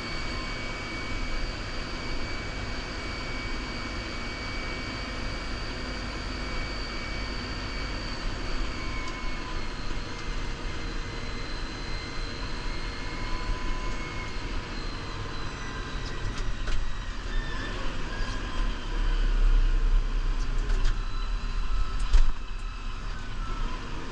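New Holland Powerstar 75 diesel tractor running under load while plowing snow: a steady low rumble with a high steady whine over it. Scattered clicks in the last third and one sharp knock near the end.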